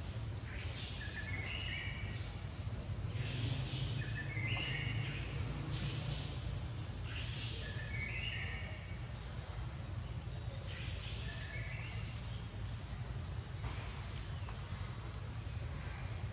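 Outdoor ambience: a short chirping call of a few stepped notes, repeated about every three and a half seconds, over a steady high hiss and a low rumble.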